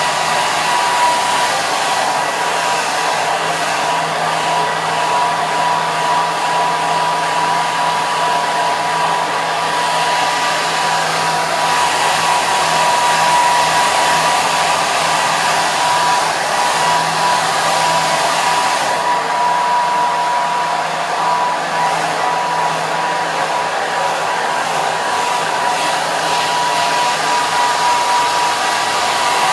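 Hair dryer running continuously: a steady rush of blown air with a constant high whine from the motor.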